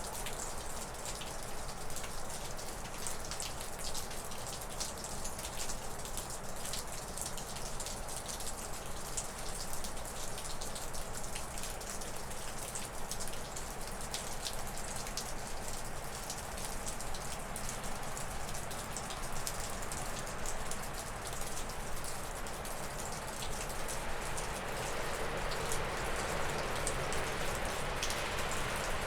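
Meltwater dripping steadily off a roof in many quick drips, over wind rushing through spruce and birch trees. About three-quarters of the way through, a stronger gust swells up in the trees and stays.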